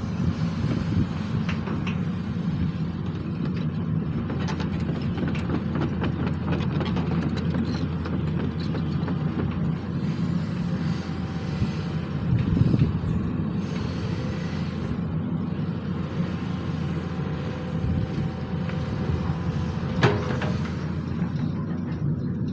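SANY SY215C excavator's diesel engine running steadily under work, with scattered short knocks from the machine and one sharper knock near the end.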